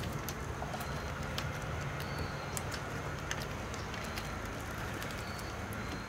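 Backyard ambience: a steady low hum under short, high-pitched bird calls that repeat every second or so, with scattered sharp clicks.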